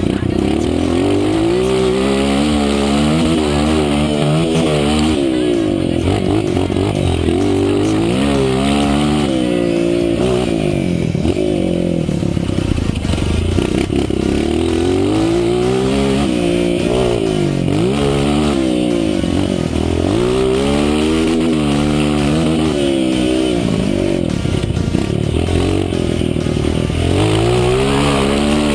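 Honda CRF 230 dirt bike's single-cylinder four-stroke engine being ridden hard, its pitch climbing again and again through the gears and dropping back off the throttle.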